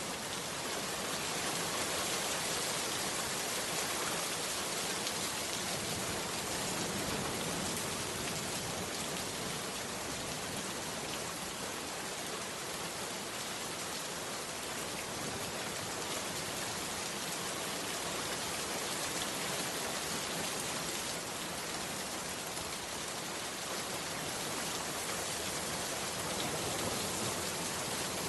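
Heavy rain falling steadily: an even hiss of countless drops with no thunder or other distinct sounds.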